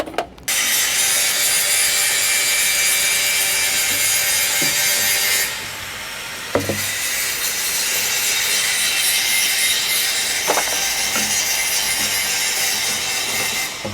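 Pipe being sawn through for drainage pipework, in two long spells of steady cutting with a short break about five and a half seconds in and a few sharp clicks.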